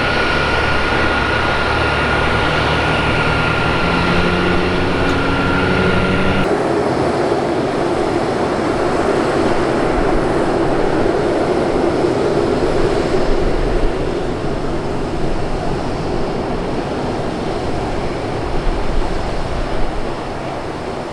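Aircraft engines at an airport: a steady high whine over rising low tones for about six seconds, then a sudden cut to a steady broad engine roar that eases off a little in the second half.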